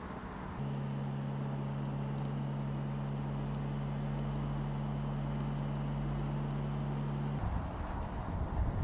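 Mercedes-Benz SLC 300's turbocharged four-cylinder engine running at a steady cruising speed, holding one even note over road and wind rush. The engine note cuts in abruptly under a second in and cuts out abruptly near the end, leaving only the rush of wind and tyres.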